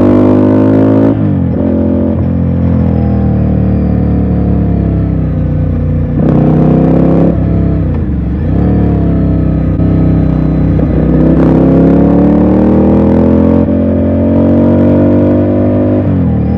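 Ducati Scrambler's air-cooled L-twin engine riding along, its note climbing through the revs and dropping at each gear change, with a deep dip about eight seconds in before it pulls up again.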